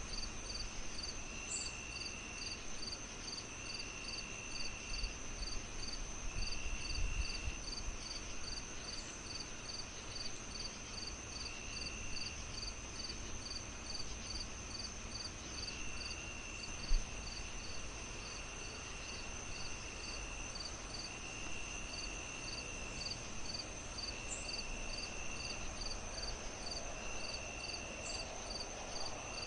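Crickets chirping in a steady rhythm of about two and a half chirps a second over a steady high insect drone, with trills about a second long that come and go. Underneath is a low fire crackle with one sharp pop about two-thirds of the way through.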